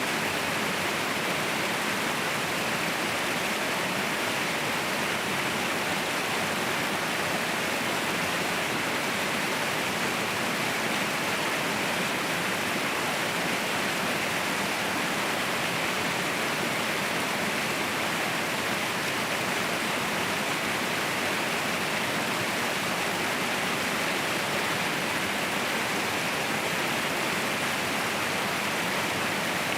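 Waterfall: a steady, even rush of falling water that holds without change.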